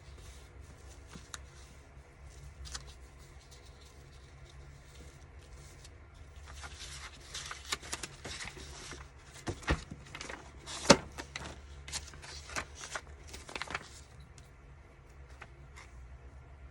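Paper being handled and rustled, with light taps and clicks. It grows busier about six seconds in, with one sharp tap near the middle, then settles again.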